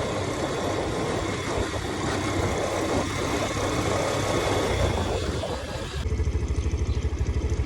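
Motorcycle riding along with engine, wind and road noise. About six seconds in, the sound changes abruptly to a low, evenly pulsing engine idle.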